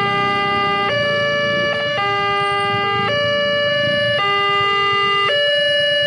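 Electronic warning alarm of a railway level crossing, sounding a repeating melody of a few notes that changes pitch about once a second, over a low rumble.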